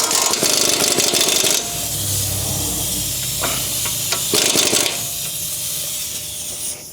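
Pneumatic tool rattling with a hiss of air while tightening the outer tie rod on a steering rack: one burst of about a second and a half at the start, then a short second burst a few seconds later.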